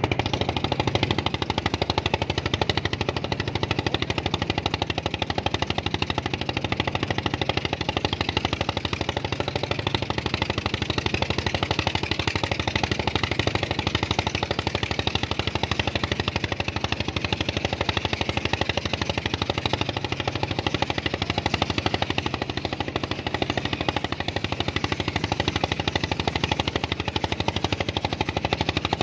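An engine running steadily, with a rapid, even knocking beat that does not change.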